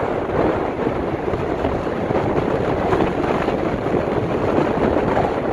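Strong wind buffeting the microphone: a loud, steady rush and rumble that swells and eases a little without a break.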